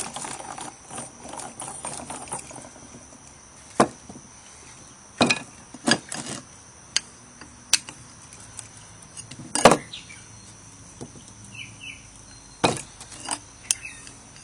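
Irregular knocks and clunks of wooden blocks and a jack being handled and set in a new spot under the floor: about nine sharp separate knocks, the loudest about two-thirds through.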